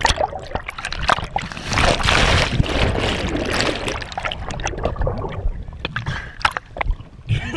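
Lake water splashing and sloshing close around a wakeboarder in the water, loudest from about a second and a half to four seconds in.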